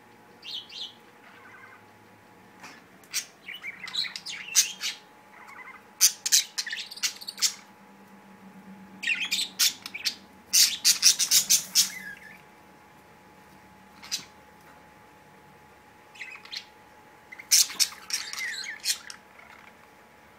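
Pet budgerigars chirping in irregular clusters of quick, high calls, the busiest stretch in the middle.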